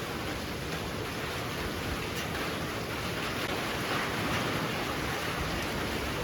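Heavy rain pouring steadily, driven by strong wind, swelling briefly about four seconds in.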